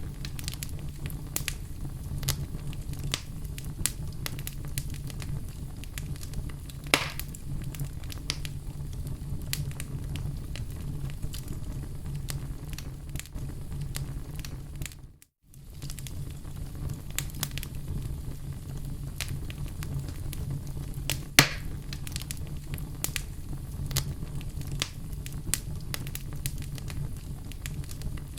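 Wood fire in a fireplace crackling, with many small pops over a low steady rumble and two louder pops, about 7 and 21 seconds in. The sound cuts out to silence for a moment about halfway.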